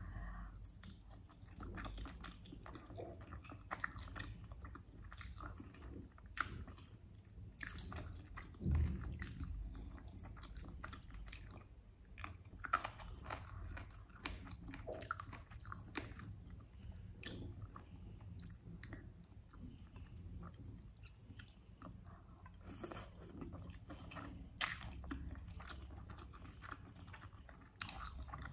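A person chewing and biting while eating chicken wings and rice by hand, with many short sharp clicks and crackles from the mouth throughout and a louder thump about nine seconds in.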